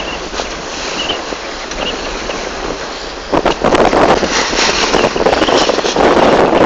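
Wind buffeting the microphone over the rush of water along a sailing dinghy's hull in a fresh breeze. The noise grows sharply louder and gustier about three seconds in.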